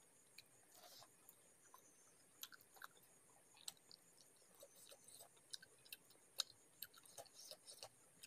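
Faint, close-miked sounds of a person eating rice and chicken curry by hand: soft chewing with many scattered, sharp wet mouth clicks.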